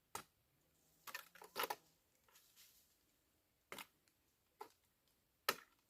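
A few faint, scattered clicks and light knocks against near silence, about half a dozen in all, the clearest about one and a half seconds in and near the end.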